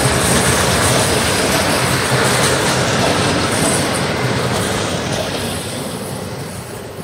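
Passenger train coaches rolling past on the rails, wheels clattering along the track. The noise fades away steadily once the last coach has gone by, about halfway through.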